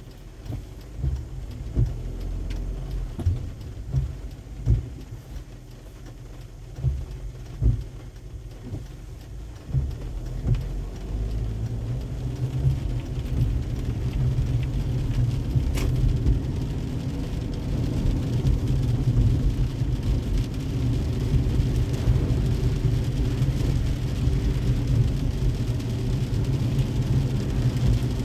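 Car driving in the rain: a low road and engine rumble under a haze of rain. For the first ten seconds or so it is broken by separate thumps about a second apart, then it becomes a steadier, louder rumble.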